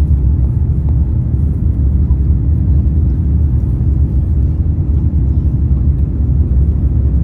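Airbus A350-900 cabin noise while climbing after takeoff: a loud, steady low rumble of engines and airflow, with a faint steady hum above it.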